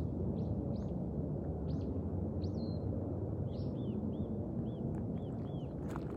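Small birds calling over a steady low background rumble: a few short high chirps, then a quick run of about six arched notes in the second half.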